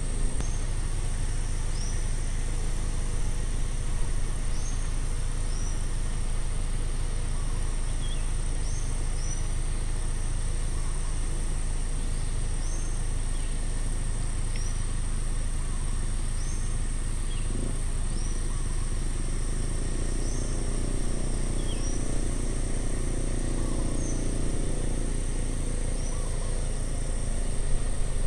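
Roadside outdoor ambience: a steady high insect drone and a bird's short call repeating every second or two, over a constant low rumble. About two-thirds of the way through, a distant vehicle's hum swells and fades.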